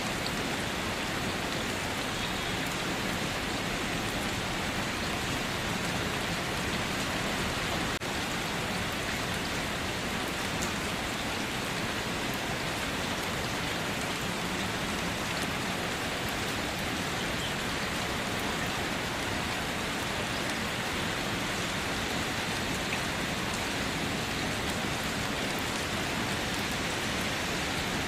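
Steady rain falling, an even, continuous hiss of rainfall.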